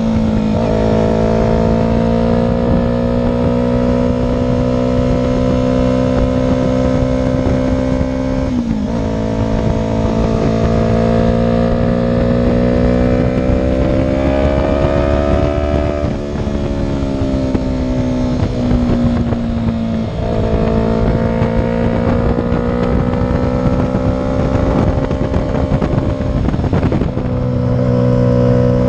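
Motorcycle engine running under way at steady revs. Its pitch drops briefly about four times, near 9, 16, 20 and 27 seconds in, and each time climbs slowly back, as with gear changes or easing off the throttle.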